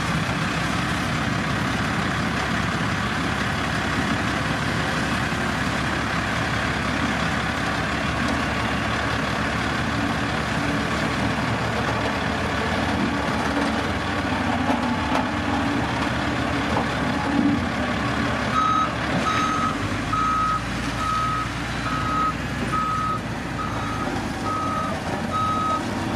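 Heavy diesel road-building machinery running steadily. About two-thirds of the way in, a reversing alarm starts beeping, roughly one beep every three-quarters of a second, as a machine backs up.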